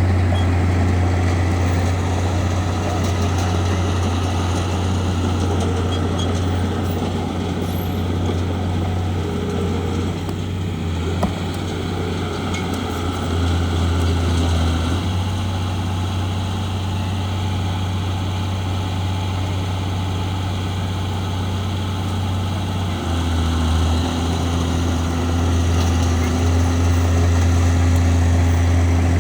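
A bulldozer's diesel engine running with a steady low drone whose note shifts a couple of times as the machine works.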